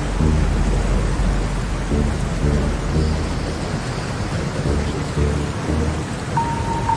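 Rain and thunder ambience with low synth notes pulsing underneath, as a breakdown in an atmospheric drum and bass track; a steady high tone comes in near the end.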